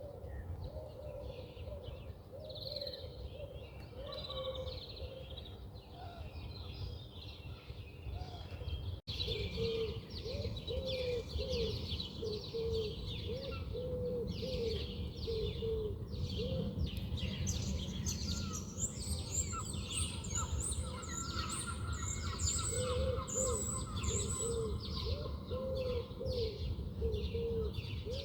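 Many birds chirping and singing at once, with a lower call repeated over and over beneath the higher chirps, over a steady low rumble of outdoor noise. The sound drops out for an instant about a third of the way in, and the chirping is denser and louder after that.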